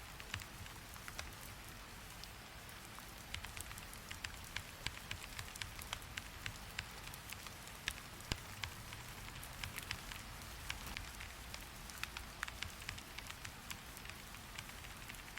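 Steady rain hiss with many scattered, irregular sharp clicks.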